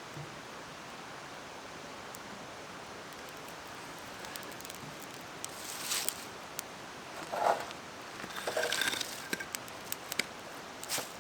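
Steady rush of a mountain stream. Over it come scattered rustles and clicks, starting about halfway through, with the loudest a little after that and another near the end.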